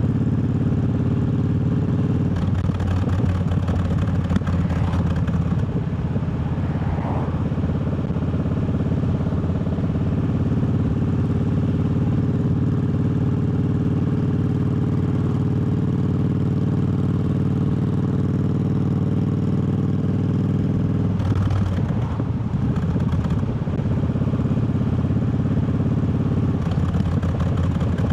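Triumph Bobber's parallel-twin engine running steadily while the motorcycle rides along. The engine note shifts briefly a few times, most clearly about three quarters of the way through.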